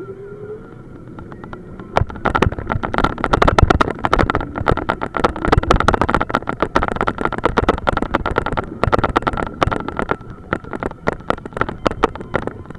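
Police motorcycle under way, heard from a bike-mounted camera: its engine running with a steady whine, then about two seconds in a sudden much louder stretch of rapid, irregular crackling, typical of wind buffeting the microphone at speed.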